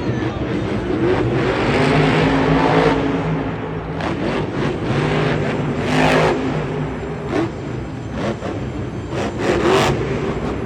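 Monster truck's supercharged V8 engine revving hard during a freestyle run, its pitch rising and falling again and again, with the loudest blasts about 2, 6 and 10 seconds in.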